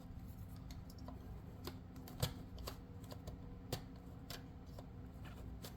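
Scattered light clicks and taps of a small plastic step being worked into its tight slot on an H0 model railway car, with two slightly louder clicks about two and four seconds in.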